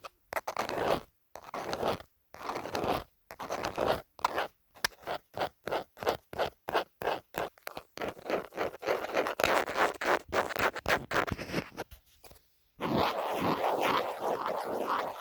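A phone case being scratched in short, repeated strokes that quicken to about three a second, then run together into continuous scratching, with a brief pause near the end before it resumes.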